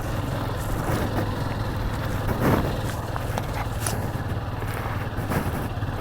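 Motorcycle engine running steadily at low speed on a rough dirt track, with scattered knocks and clicks from the bike going over the uneven surface.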